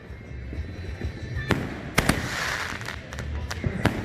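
Fireworks going off: a sharp bang about a second and a half in, a quick pair near the middle followed by a crackling hiss, and two more bangs near the end.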